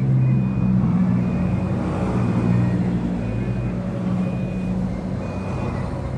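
A vehicle's reversing alarm beeps about once a second, each beep about half a second long, over the steady drone of its engine running.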